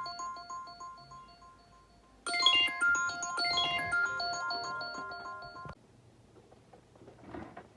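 A phone ringtone playing a short electronic melody of bright notes, heard fading in its first round and then a louder second round. It cuts off suddenly a little before six seconds in as the call is answered.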